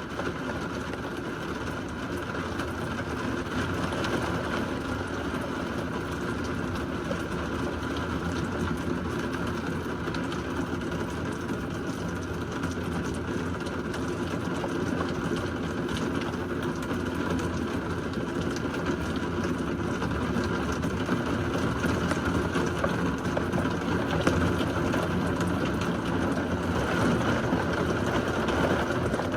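Heavy rain falling steadily during a severe thunderstorm, slowly growing louder, with no thunder claps.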